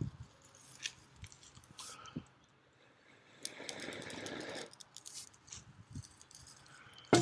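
Faint crackling and rustling of a dry plant-fibre tinder bundle, with a longer soft rushing noise about halfway through. It ends on a sudden loud knock.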